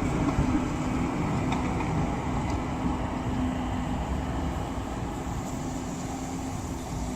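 Tram running on street rails: a low rumble with a steady hum that stops about five and a half seconds in, the whole sound slowly getting quieter.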